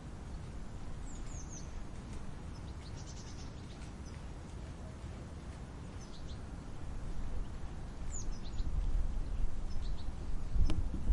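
Wind noise that grows stronger in the second half, with small birds giving short, high chirps every couple of seconds. A brief sharp click comes near the end.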